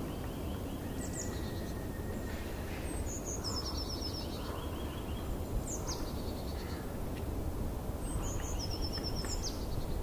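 A songbird singing: four phrases, each opening with a high note sliding down and then running into rapid trills that step down in pitch, over a steady low rumble.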